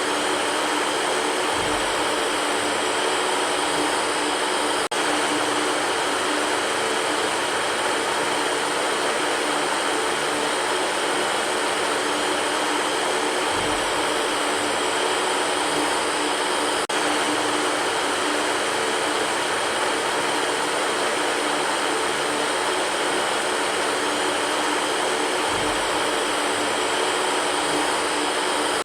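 Electric fan running steadily: an even rush of air with a faint motor hum. A soft low thump recurs three times, about twelve seconds apart.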